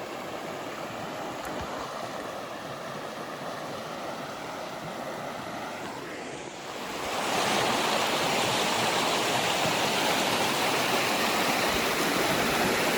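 Small river rapids rushing steadily, getting louder about seven seconds in.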